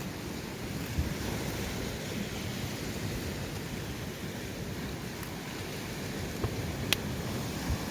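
Steady low rush of sea surf and wind, with a few sharp clicks, the loudest about seven seconds in.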